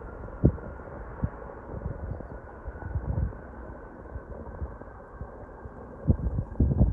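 Steady, distant jet engine noise from a Boeing 787-8 airliner on its takeoff, a smooth rumble with a faint steady whine. Wind buffets the microphone with irregular low thumps, most heavily near the end.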